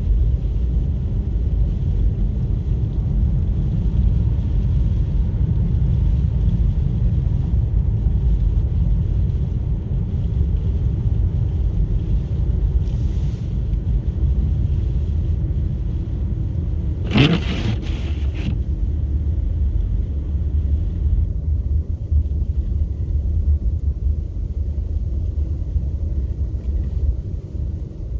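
Steady low rumble of a vehicle driving, with wind noise. About two-thirds of the way through comes one brief, louder rising whoosh.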